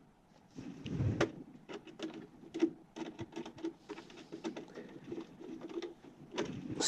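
Irregular small clicks and taps of hands and a tool working wires onto a furnace control board's terminals, with a louder knock about a second in.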